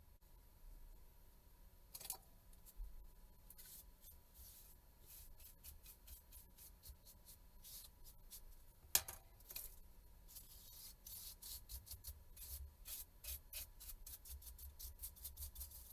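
Faint, irregular small clicks and taps of hands handling small hard objects, with a sharper click about 2 s in and a louder snap about 9 s in; from about 11 s the clicks come quickly, several a second, like typing. A faint low hum runs underneath.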